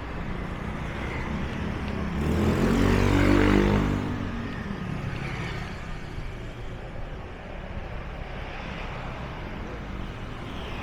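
An engine passes close by, swelling and fading within about two seconds, loudest between two and four seconds in, over a steady low rumble.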